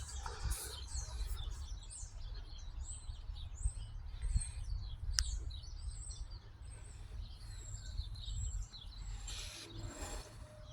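Birds chirping and calling, many short high notes one after another, over a steady low rumble, with a single sharp click about halfway through.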